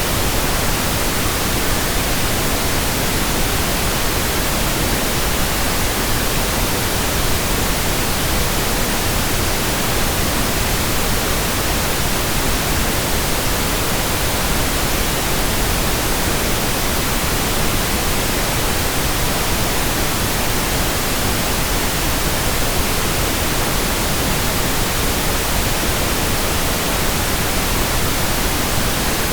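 Steady synthetic pink noise: an even, unchanging hiss across all pitches, with no events or variations.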